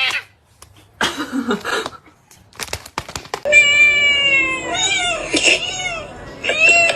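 Domestic cat meowing: after a few soft clicks, one long drawn-out meow starts about halfway in, followed by shorter rising-and-falling meows.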